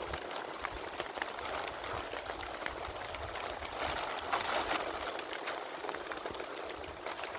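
Heavy rain falling, with a steady hiss and many separate drops ticking on a surface.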